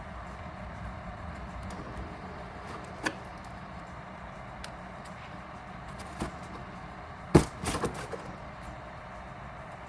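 A few short knocks over a steady background hiss: single light ones about three and six seconds in, and a louder cluster of two or three near the end.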